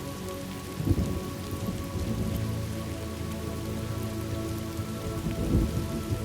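Thunderstorm ambience: steady rain falling, with low rolls of thunder swelling about a second in and again near the end.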